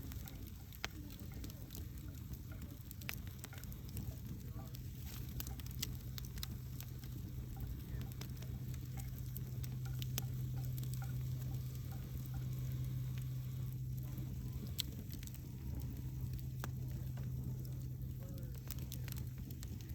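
Fire crackling, with scattered sharp pops and snaps over a steady low hum.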